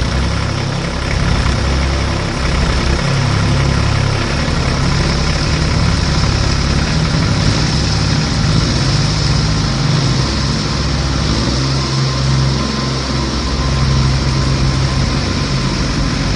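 Heavy tractor engine running steadily at idle, with a low, even rumble.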